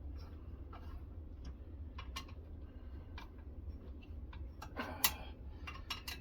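Irregular small clicks and taps from handling a knife clamp on a guided sharpening system while it is being readjusted, with a quick cluster of sharper clicks near the end. A steady low hum runs underneath.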